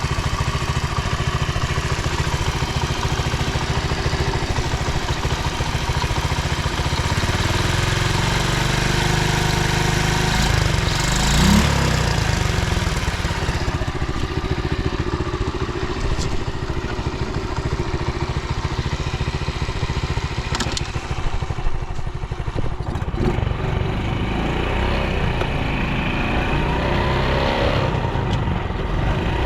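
Honda Dax 70 (ST70) small single-cylinder four-stroke engine running steadily, revved briefly once about eleven seconds in, with a few sharp clicks later. The seller describes it as running normally with no abnormal noise.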